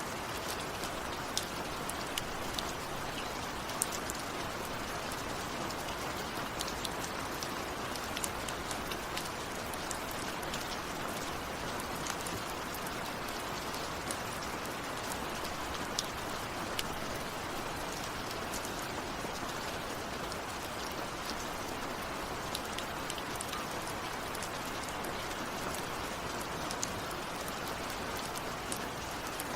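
Steady rain falling, with scattered individual drops ticking sharply over the even hiss; no thunder.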